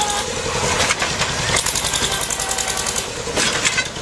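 A heavy vehicle engine running, with rough clattering noise over it.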